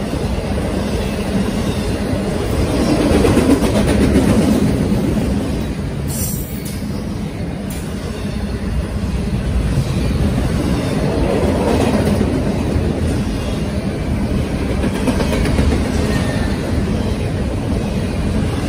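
Norfolk Southern intermodal freight cars, trailer flatcars and double-stack container well cars, rolling past close by with a steady rumble of steel wheels on the rails.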